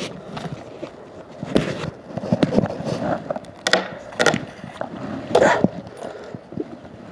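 Irregular knocks, clatters and scrapes, a few louder ones spaced a second or two apart; no chainsaw is running.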